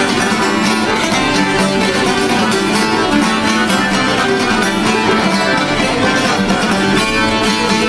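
Instrumental break of an Albanian folk song: plucked string instruments playing a quick, busy melody over a steady accompaniment, with no singing.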